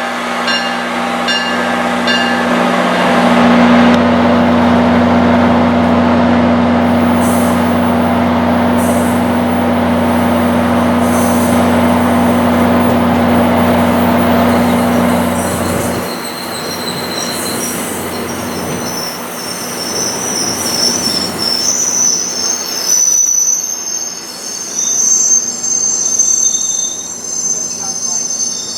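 A train running through the station. For the first half there is a steady low engine drone and rumble, which drops off about halfway. After that, steel wheels squeal on the rails in high-pitched tones, loudest near the end.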